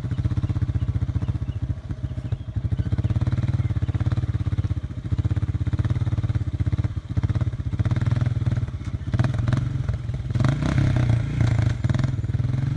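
Quad bike engine running with a steady low pulse, growing louder and busier in the last few seconds.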